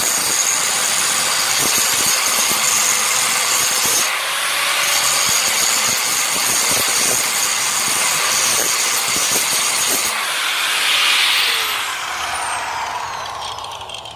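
Electric power tool running under load, cutting into the metal bed frame, with a steady high whine. Near the end it is released and winds down with a falling whine.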